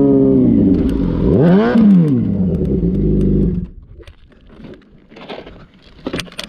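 Motorcycle engine running, revved up and back down once about a second and a half in. A little past halfway the engine sound cuts off abruptly, leaving faint scattered ticks and scrapes.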